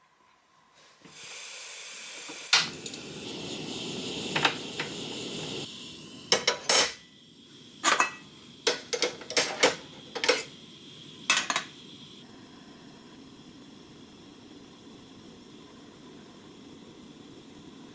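Metal utensils clinking and tapping against a small steel plate, about a dozen sharp clinks in irregular clusters, over a steady hiss that starts about a second in and eases after about six seconds.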